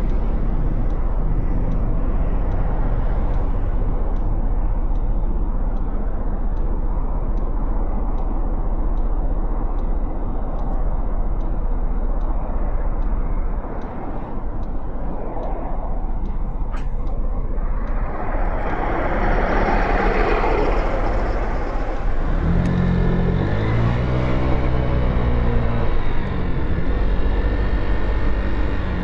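Motorcycle engine running in city traffic with a steady low rumble and road noise, then about two-thirds of the way in a swell of wind and traffic noise, followed by the engine revving up as the bike pulls away, its pitch climbing in steps.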